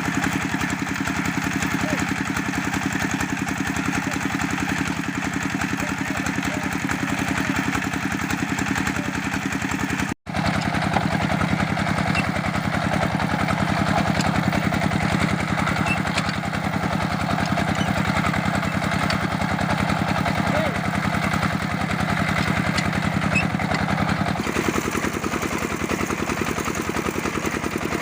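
Engine of a brick press machine running steadily with an even pulse. It drops out for an instant about ten seconds in and changes tone a few seconds before the end.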